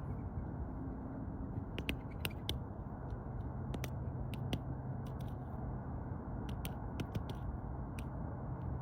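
Woodpecker pecking: irregular sharp taps, sometimes several a second with pauses between, over a steady low hiss.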